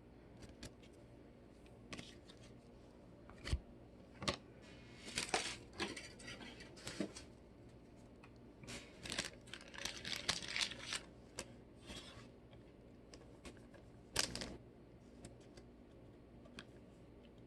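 Trading cards and a pack wrapper being handled: scattered sharp taps and clicks, with two spells of crinkling and tearing, the way a wrapper sounds when a pack is ripped open.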